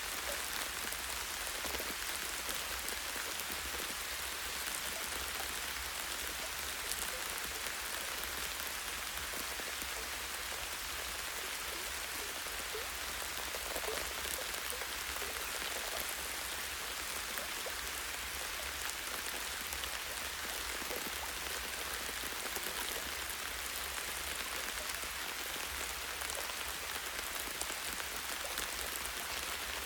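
Steady light rain, a constant patter of many small drops falling on leaves and branches with scattered individual drips.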